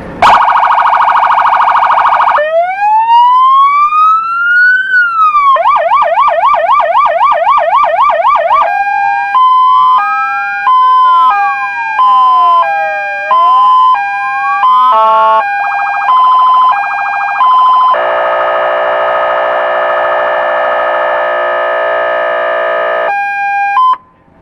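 US-style electronic police siren cycling through its tones: a short buzzy air-horn blast, a slow wail that rises and falls, a fast yelp at about three sweeps a second, and an alternating two-note hi-lo tone with sweeps over it. A long buzzy horn tone then follows and cuts off suddenly near the end.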